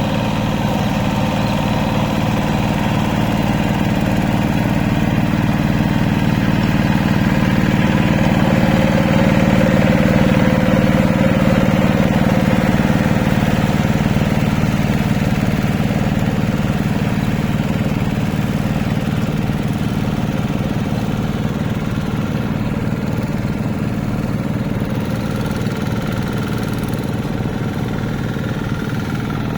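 Hand tractor engine running steadily with an even, rapid chug. It grows a little louder over the first ten seconds or so, then slowly fades.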